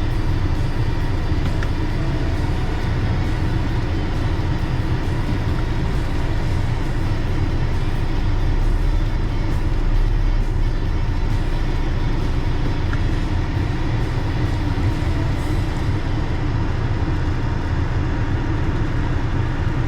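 A car driving at a steady pace, with a continuous low rumble of engine and tyre noise that neither rises nor falls.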